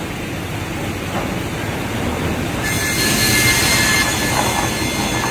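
Sawmill machinery running steadily, with a high-pitched ringing hiss and steady squealing tones coming in about halfway through.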